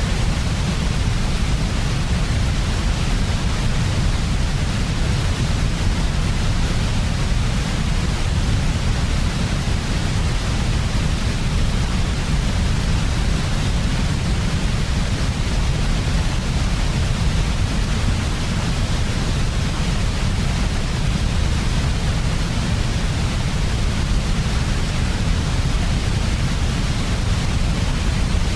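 Steady white noise made for sleep: an unchanging, even hiss with a heavy deep rumble underneath.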